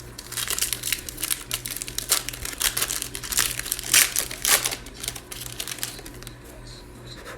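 Plastic wrapper of a Panini Mosaic basketball card pack being torn open and crinkled by hand, a dense run of sharp crackles that peaks about four seconds in and dies away near the end.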